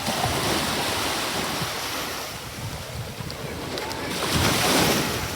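Ocean waves washing in and drawing back, one surge at the start and a louder one about four and a half seconds in, with wind buffeting the microphone.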